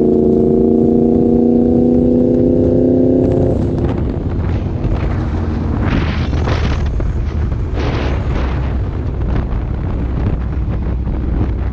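Yamaha MT-10's inline-four through an Austin Racing exhaust, held at steady high revs with the pitch creeping up. About three and a half seconds in the throttle closes, leaving a rough low rumble with a few louder rushes.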